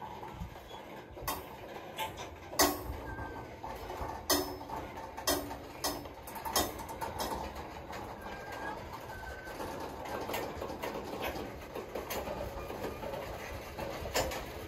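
Freight train of covered hopper cars rolling slowly past, its steel wheels rumbling steadily on the rails with irregular sharp clanks and clicks.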